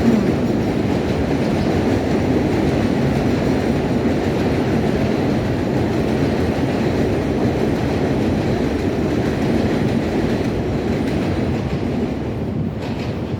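Elevated subway train on the BMT West End Line passing over the steel el structure overhead. A steady, loud running noise that eases a little near the end.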